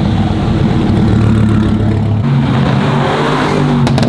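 A loud car engine running, its pitch stepping up about halfway through.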